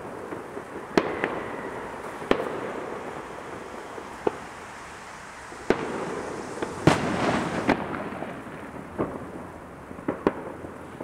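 Fireworks going off across a city: irregular sharp bangs roughly every second over a steady background of crackling and rumbling reports. There is a denser, louder burst of crackling about seven seconds in.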